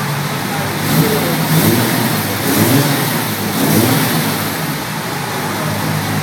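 Nissan Silvia S13 drift car's engine idling, then revved in about four short throttle blips, each rising and falling back, before settling to idle again for the last couple of seconds.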